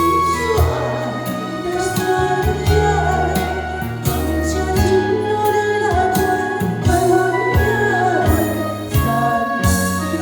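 A woman singing a slow ballad with a band backing her: steady bass and keyboard notes under a regular drum beat.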